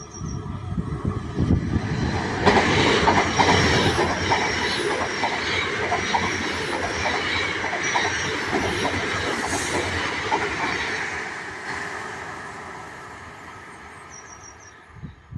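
A train passing on the rails, its wheels clattering rhythmically over the rail joints. It builds up over the first couple of seconds, then fades away over the last few.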